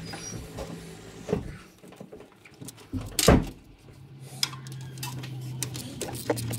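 Hand tools and metal parts clinking and knocking during work on a tractor's gear-lever housing, with one louder knock about three seconds in. A low steady hum comes in about four seconds in.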